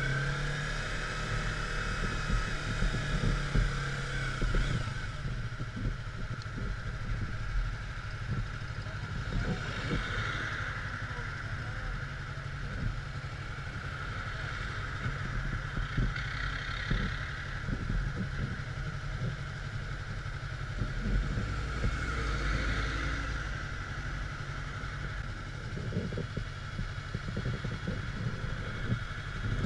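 Motorcycle engine running steadily while riding, with a road and wind-like hiss that swells now and then and scattered small knocks.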